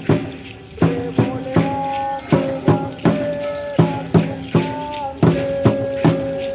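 Aztec dance drumming: a steady beat of sharp drum strikes, about two to three a second, with a rattling jingle on each beat. From about a second in, held melodic notes ring above the drum.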